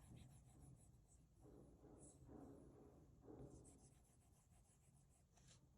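Near silence with faint scratchy strokes of a stylus drawing on a tablet's glass screen, a few soft strokes in the middle.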